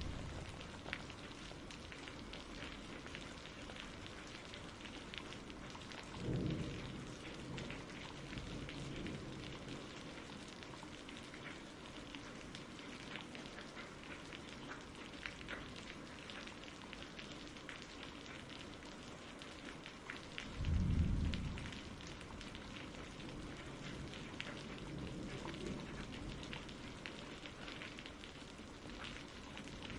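Steady rain falling, with two low rumbles of thunder: a short one about six seconds in and a louder one about twenty-one seconds in.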